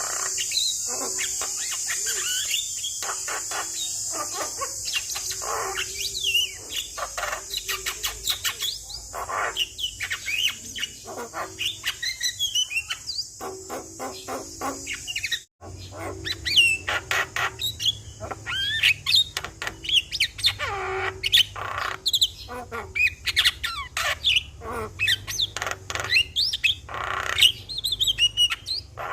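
Javan mynas singing in a fast, unbroken stream of whistles, chirps and harsh squawks. A steady high hiss sits behind the first half, and the recording cuts abruptly just past the middle before the song resumes over a low hum.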